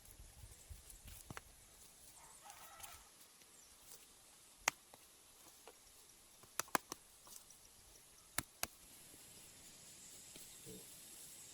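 A few sharp clicks or knocks over a faint steady hiss: one near the middle, then a quick pair, then another pair a couple of seconds later.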